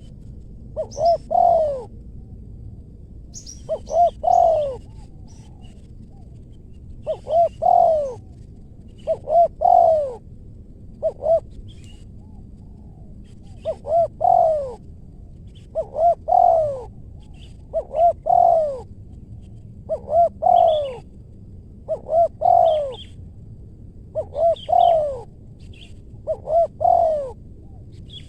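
Spotted dove cooing over and over, each phrase two or three short notes and then a longer drawn-out coo, about every two seconds. Faint high chirps of small birds sound above it.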